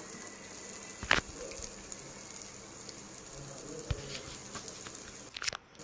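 Sliced onions frying gently in melted butter in a nonstick pan, a steady soft sizzle, as green capsicum strips are added; a couple of sharp taps stand out, about a second in and again near the end.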